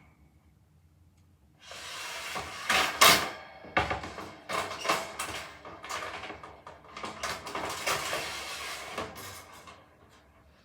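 Wood being handled and worked: uneven scraping and rustling with several sharp knocks, starting about a second and a half in and dying away near the end.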